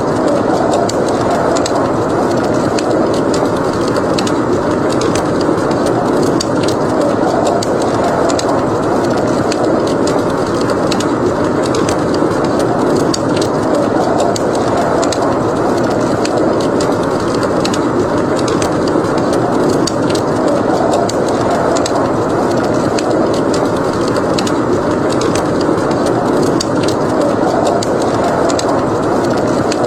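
Blizzard wind blowing as a steady, deep rush that swells gently, with a wood fire crackling over it in many small, sharp pops.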